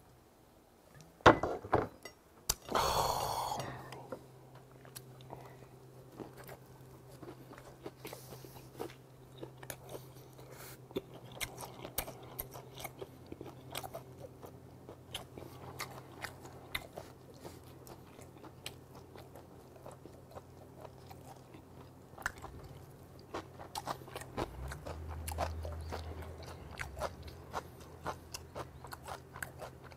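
Close-up chewing and mouth sounds of a person eating chewy grilled hagfish, many small wet clicks. About a second in come a couple of sharp knocks, the loudest sounds here, followed by a short breathy rush.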